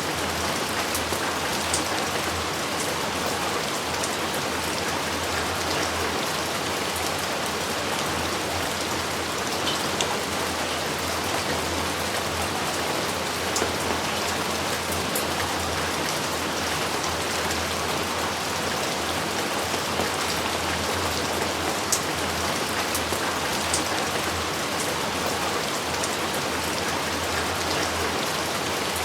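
Steady heavy rain falling, with scattered individual drops ticking out of the hiss.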